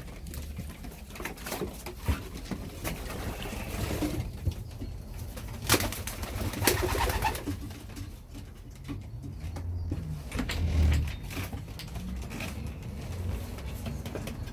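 Homing pigeons cooing in a small loft, a low pulsing coo that swells about two-thirds of the way through, with a few sharp clicks or knocks around the middle.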